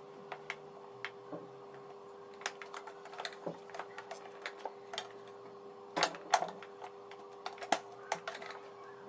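Irregular plastic clicks and taps from the casing of a Toshiba vacuum cleaner being handled and pried apart at its snap-fit panels, louder about six seconds in and again near eight, over a faint steady hum.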